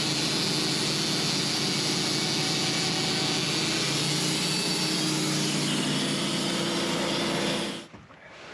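Sawmill running steadily, a loud even machine noise with a low hum under it, which stops abruptly near the end.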